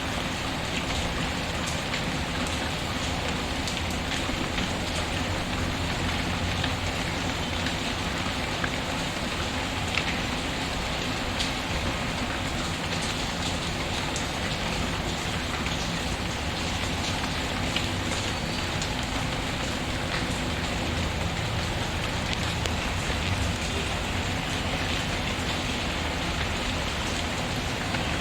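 Steady rain falling, mixed with a fireplace's crackle: an even hiss with scattered sharp little pops.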